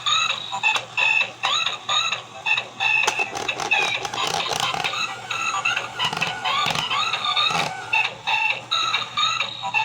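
Battery-operated toy car's electronic sound chip playing chirpy, beeping music and sound effects as the car spins, with short gliding tones repeating in a quick rhythm and scattered clicks.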